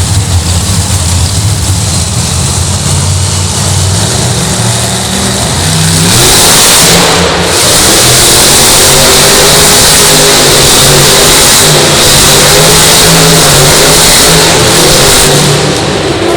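Monster truck engine running, then revving hard and much louder from about six seconds in, staying loud until near the end.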